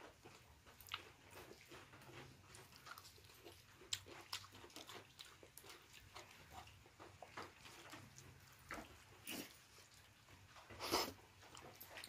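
A person chewing and eating khichdi close to the microphone: faint, irregular mouth clicks and smacks, with a louder smack about eleven seconds in.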